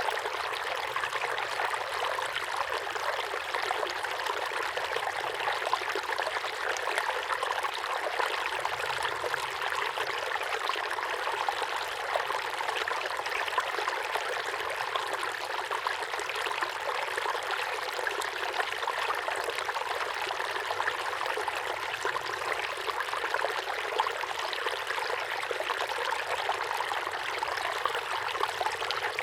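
Small waterfall pouring steadily into a pond, a continuous splashing rush of water without change.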